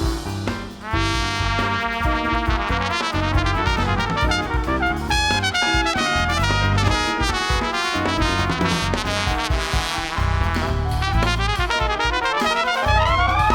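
Jazz quartet playing: trumpet carrying a fast melodic line over piano, double bass and drums, climbing in a quick rising run near the end.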